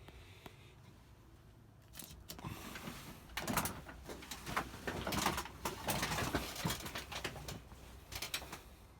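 Irregular rustling and clicking, starting about two seconds in and fading near the end.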